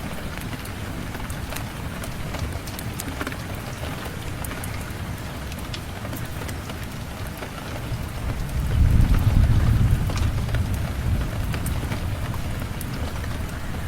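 Steady rain, with a low rumble of thunder swelling about eight and a half seconds in and fading over a few seconds. Scattered sharp ticks sound over the rain throughout.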